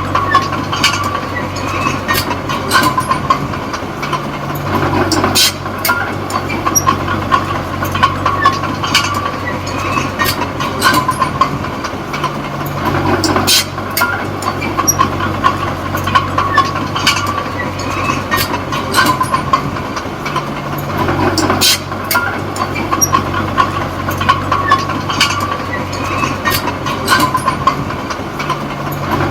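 Small D20P crawler bulldozer working: its diesel engine running steadily while the steel tracks clank and squeal. The engine note shifts about every eight seconds.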